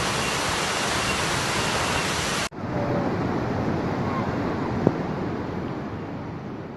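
Steady rushing roar of a waterfall in flood, heavy muddy water pouring down. It breaks off abruptly about two and a half seconds in and picks up again at once, duller, then slowly grows fainter toward the end.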